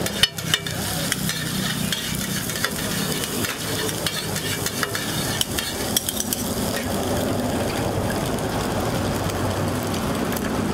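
Egg mixture sizzling on a hot flat griddle (tawa) while a metal spatula scrapes and chops through it, with sharp clicks of the spatula striking the plate in the first second and again around five to six seconds in.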